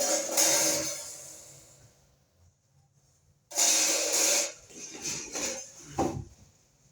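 Handling noise: two loud rustling clatters about three and a half seconds apart, each fading over a second, then a few lighter knocks.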